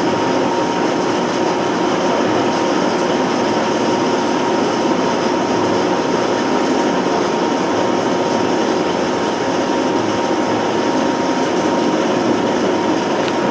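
Wildfire steel roller coaster running: a steady, loud mechanical rumble with a steady whine running through it.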